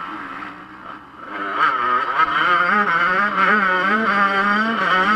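Yamaha YZ125 two-stroke motocross engine easing off, then revving up sharply a little over a second in and held at high revs, its pitch wavering up and down.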